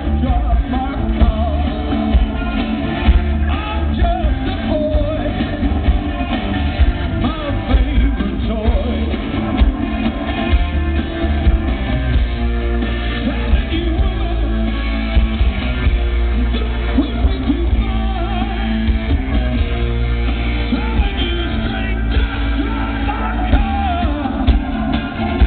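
Rock band playing live: a lead singer over electric guitars, with a heavy low end.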